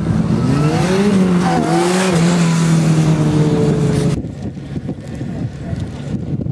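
A supercar's engine revving hard as it accelerates, its pitch climbing and dropping back several times as it shifts up. It cuts off suddenly about four seconds in, leaving wind noise on the microphone.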